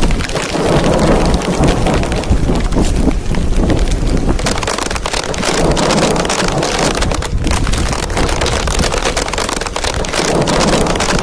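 Rain falling hard, a dense patter of drops, with gusts of wind rumbling on the microphone.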